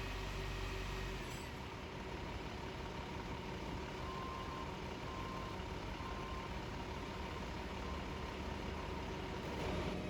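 Steady low rumble of vehicle noise, with a few faint short beeps about once a second in the middle.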